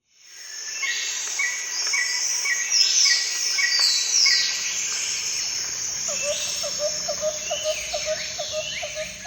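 Several birds calling and singing: a run of short chirps repeated about twice a second, high falling whistles over it, and from about halfway a lower note repeated quickly, several times a second. The sound fades in at the start.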